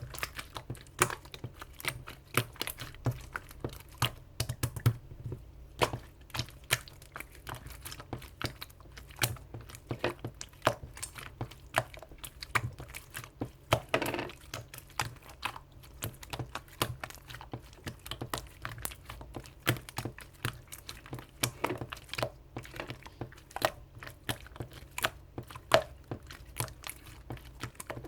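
Hands squeezing and pressing a clear konjac slime that still holds air bubbles, making a dense, irregular run of small clicks and pops.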